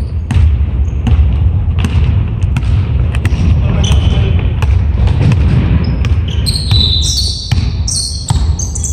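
Repeated thuds and knocks in a large echoing room, with a steady low rumble under them. In the second half come many short, high-pitched squeaks.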